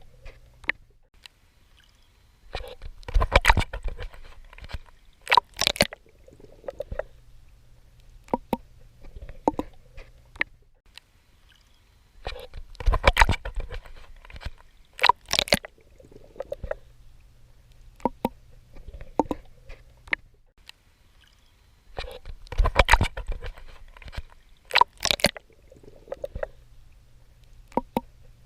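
Water splashing and sloshing around a swimmer in the sea, in clusters about every ten seconds, with a low steady hum between them.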